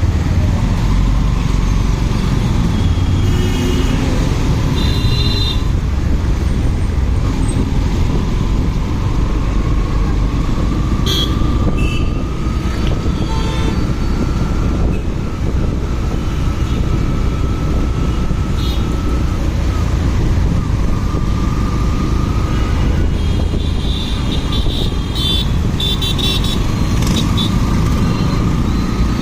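Motorcycle ride in traffic: steady wind rumble on the helmet microphone over the running engine, with a faint whine that slowly rises in pitch. There are short high beeps about five seconds in and several more near the end.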